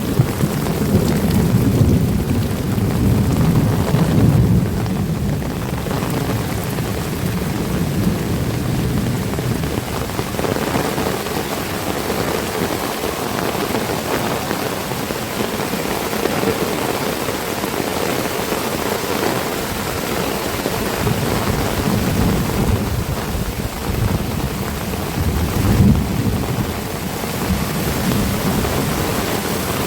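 Heavy rain falling steadily and loudly, with a low rumble in the first few seconds and again near the end.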